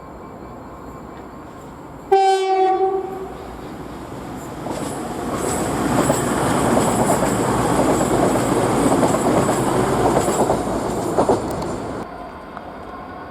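A train horn sounds one short blast about two seconds in. Then a train passes close by, its wheels clattering over the rail joints, and the sound drops away near the end.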